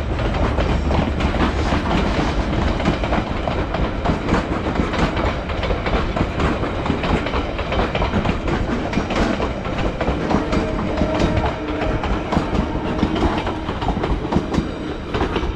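Train rolling past, its wagons clattering over the rail joints in a steady stream of clicks over a low rumble.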